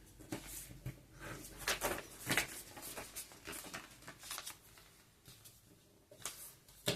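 A sheet of paper being folded and creased by hand: soft, irregular rustles and crinkles, a couple of them louder about two seconds in, then quieter before a final rustle near the end.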